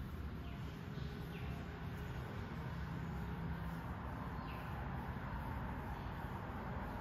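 A steady low rumble with a few short, high, falling chirps from small birds, three in the first second and a half and one more at about four and a half seconds.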